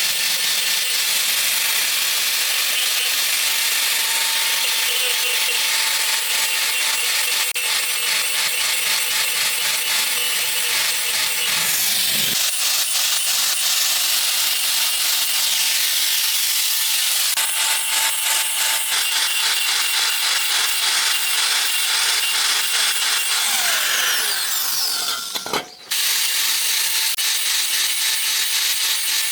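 Steady rasping noise of hand or power tool work on a workpiece, with a brief break about 25 seconds in.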